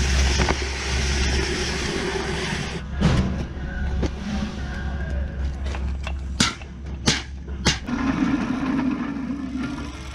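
Steel tubing being handled in a fabrication shop: several sharp knocks, spaced unevenly, over a steady low machine hum.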